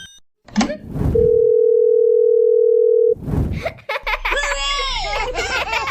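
A telephone tone: one steady electronic beep held for about two seconds, starting about a second in. It is followed by a jumble of sliding, cartoon-like voices and effects.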